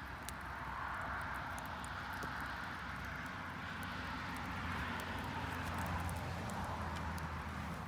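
Garden bonfire crackling with scattered small sharp pops, over a distant engine rumble that swells in the middle and fades near the end.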